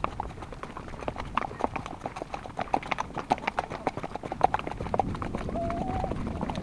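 Hooves of several horses clip-clopping at a walk, many overlapping, irregular hoofbeats, with a short held tone about five and a half seconds in.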